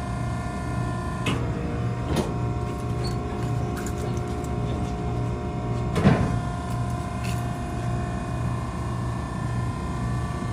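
Maren cardboard baler's hydraulic power unit running with a steady, evenly pulsing hum. A few sharp knocks come through, the loudest about six seconds in.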